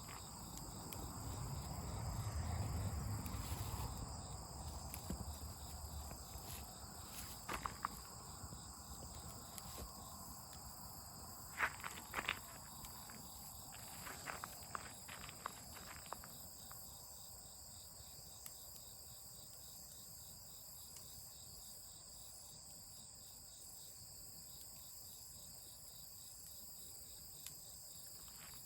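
Crickets and other night insects chirping in a steady high-pitched chorus. There is a low rustling rumble near the start and a scattered handful of sharp clicks and knocks in the middle.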